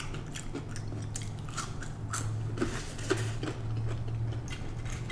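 A person chewing crispy french fries, with irregular crunches and wet mouth clicks, over a steady low hum.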